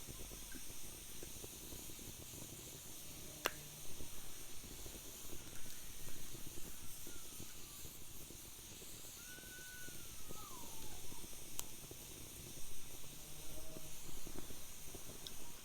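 Wood fire burning in a fire pit: a steady hiss with fine crackling and a few sharp pops. A faint wavering whistle comes near the middle.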